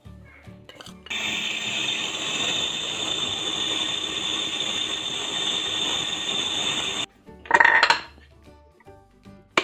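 Electric spice grinder running for about six seconds, grinding whole coriander seeds, cumin, chilli and salt into a masala powder. It starts about a second in and cuts off suddenly, followed by a short loud burst a little later.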